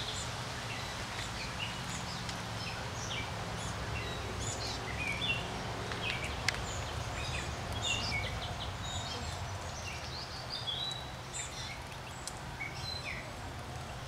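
Small birds chirping and twittering: many short, high chirps scattered all through, over a steady low background hum.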